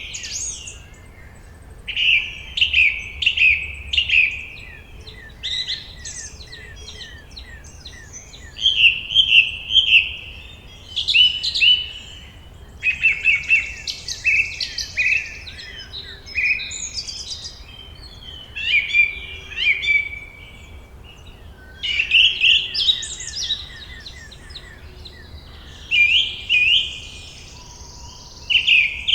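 Songbirds singing in a forest: phrases of quick, bright chirps repeated every couple of seconds, with short pauses between them.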